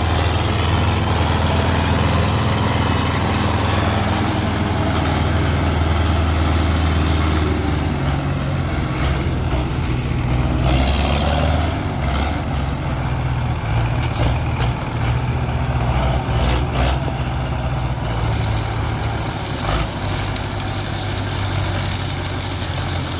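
Farm tractor's diesel engine running steadily under load. Its pitch shifts around the middle and becomes less even in the second half.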